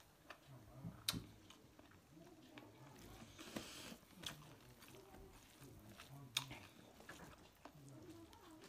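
Faint chewing of pig head meat and rice, eaten by hand, with a few sharp clicks, the loudest about a second in and just past six seconds.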